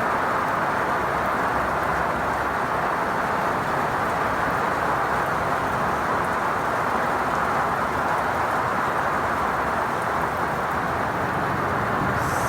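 Heavy rain pouring steadily, an even hiss without breaks.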